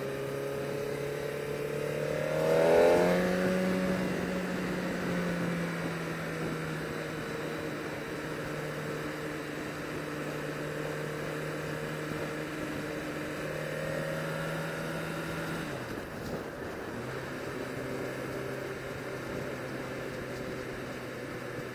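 Sport motorcycle engine under way: it revs up about three seconds in, then holds a steady pitch while cruising, drops briefly about sixteen seconds in and picks up again.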